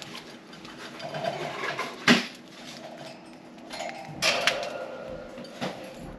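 Budgerigars feeding on millet: sharp pecking knocks, the loudest about two seconds in and two more near four and five and a half seconds, over soft budgie chatter.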